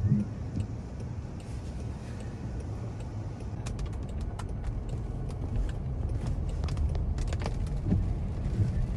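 Steady low rumble of road-vehicle noise, with a few faint clicks.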